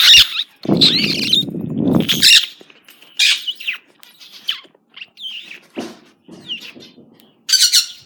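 Pet birds chirping and calling in short, separate notes, ending in a run of harsh squawks. A loud, rough noisy burst fills the first two seconds.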